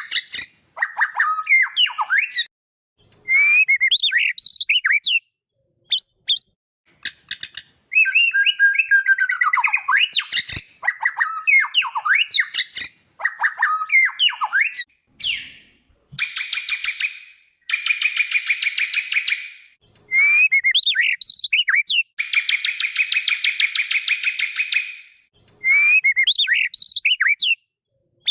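White-rumped shama (murai batu) song: varied whistled phrases with rising and falling notes, and in the second half long rapid buzzy rattles, the phrases starting and stopping abruptly as in an edited, looped recording.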